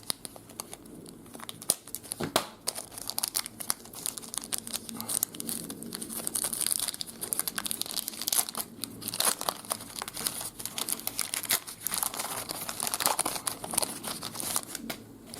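A trading-card pack wrapper being torn open and crumpled, a dense run of crinkling with many sharp crackles.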